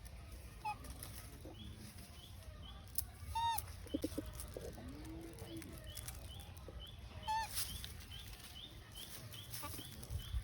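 Animal calls: a run of short high chirps about three a second, with a few louder squeaky calls over a low steady rumble.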